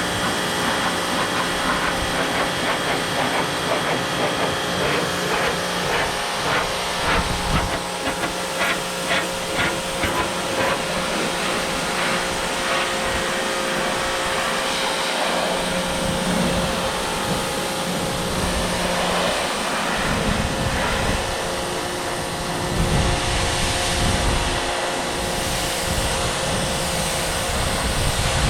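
A motor-driven machine running steadily with a loud hiss, with a run of quick, evenly spaced clicks about a third of the way in and a heavier low rumble in the last third.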